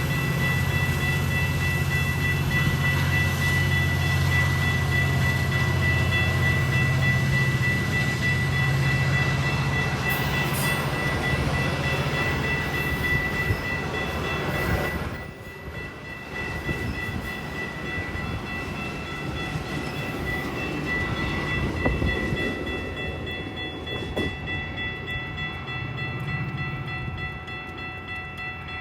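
Train passing: a diesel locomotive's heavy low rumble for roughly the first half, dropping off sharply about halfway through, followed by a quieter rolling rumble of the train that fades near the end. A steady high ringing tone runs over it throughout.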